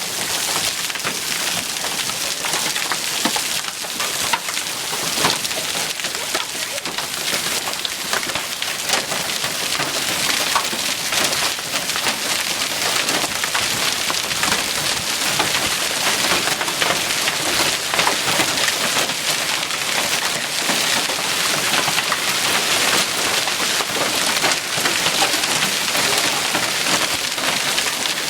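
Hailstorm: hail and heavy rain pelting hard surfaces, a dense, steady clatter of many small impacts.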